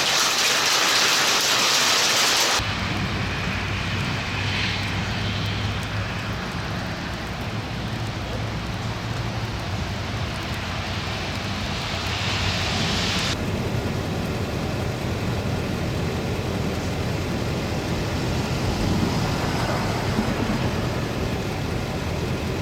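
Heavy rain hissing steadily, which cuts off abruptly after about two and a half seconds and gives way to a steady low drone with a fainter rain hiss.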